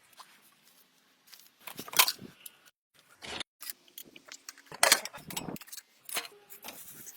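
Metal tools and motorcycle parts clinking and clattering as they are handled and worked, in irregular sharp knocks with a few short squeaks, broken by abrupt edit cuts.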